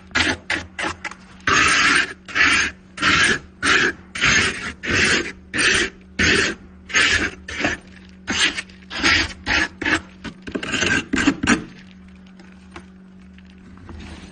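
Ice crunching in short, rough, uneven strokes, about two a second, that stop about twelve seconds in.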